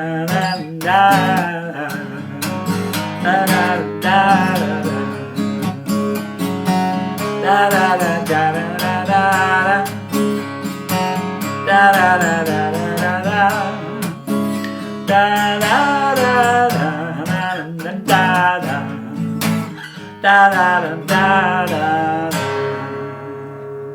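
A man singing a wordless "da da da" melody in short phrases over strummed acoustic guitar, ending on a final chord that rings out and fades near the end.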